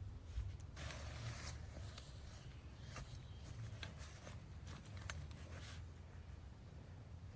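Rustling and scattered small clicks of gear being handled, loudest about a second in, over a steady low rumble.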